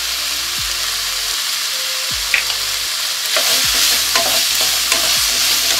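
Chopped tomatoes, small onions and ginger-garlic paste sizzling in oil in a nonstick pan. A wooden spatula stirs and scrapes now and then, and the sizzling grows louder about halfway through as the mix is turned.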